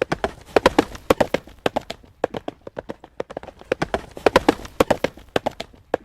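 Horse's hooves clip-clopping on a hard road surface at a trot, a quick run of sharp strikes several times a second.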